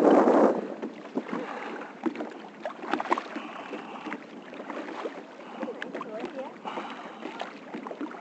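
Water lapping and splashing around a kayak, with a few light knocks and drips from the paddle.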